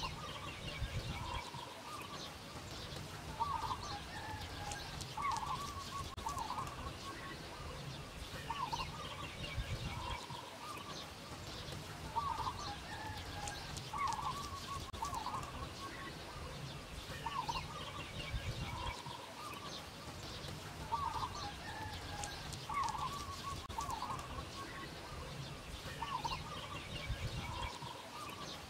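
Birds calling: short, bending calls with fainter high chirps above them. The same run of calls recurs about every nine seconds.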